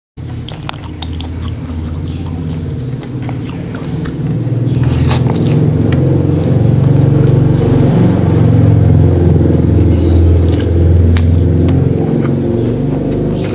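Close-miked chewing of rice and grilled fish eaten by hand, with sharp wet mouth clicks, over a loud low rumble that swells in the middle and eases near the end.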